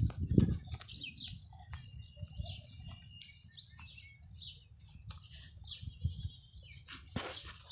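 A small bird chirping repeatedly, short high chirps about once a second, over a steady low rumble.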